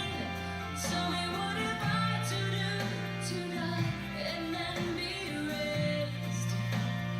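Recorded pop song: a woman singing over held bass notes and instrumental backing.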